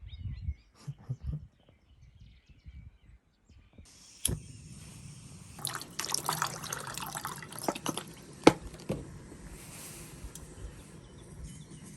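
Water being poured into a pot while making camp coffee, splashing and trickling, with a few sharp clicks and knocks of handling; the loudest click comes about eight and a half seconds in.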